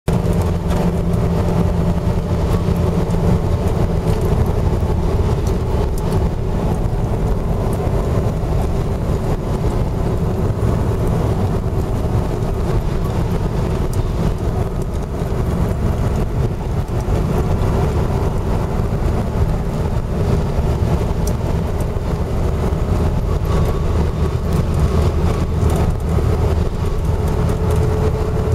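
Steady engine and tyre noise of a car travelling at expressway speed, a continuous low drone.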